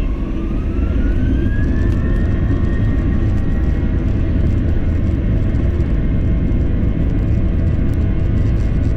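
Airliner jet engines spooling up to takeoff thrust, heard from inside the cabin. A whine rises in pitch over the first two seconds and then holds steady over a loud, even rumble.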